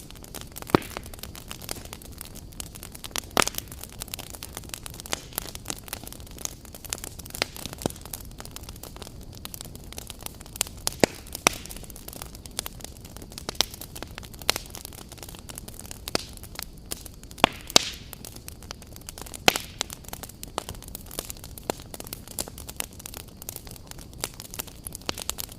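Wood fire crackling and popping: a steady low hiss with irregular sharp snaps, a few of them much louder than the rest.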